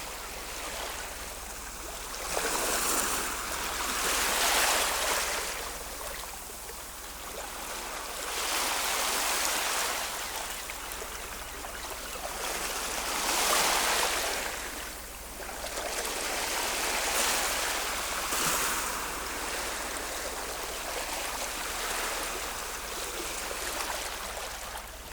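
Ocean waves washing onto the shore, swelling and falling back in a slow rhythm every four to five seconds.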